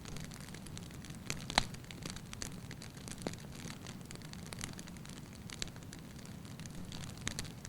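Wood fire burning in a fireplace: a steady low rumble of flames with irregular sharp crackles and pops, the loudest pop about a second and a half in.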